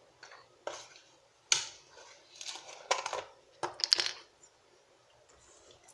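Kitchen utensils clinking and tapping against a dish several times, with a cluster of sharper clinks near the middle, as milk is readied to be spooned into cake batter.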